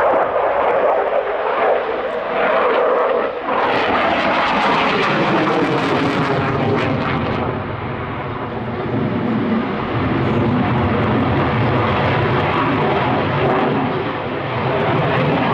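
A Saab JAS 39 Gripen in flight: the loud, continuous noise of its single Volvo Aero RM12 turbofan jet engine, which deepens about halfway through.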